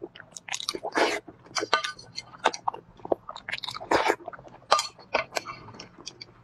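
Close-miked eating sounds: a person biting into and chewing sauce-soaked boiled eggs, with irregular wet smacks and clicks.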